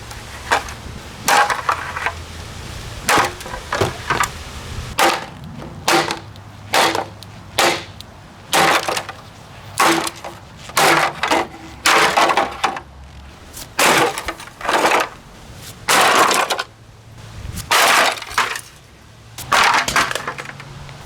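A Kaz evaporative humidifier being smashed apart: a long series of hard blows, about one a second and irregular, each with cracking and breaking of its housing.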